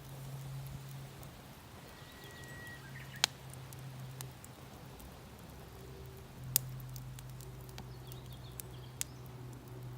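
Damp, poorly burning firewood crackling on a mesh fire stand, with three sharp pops at about a third of the way in, two-thirds in and near the end, and fainter ticks between. A low steady hum runs underneath.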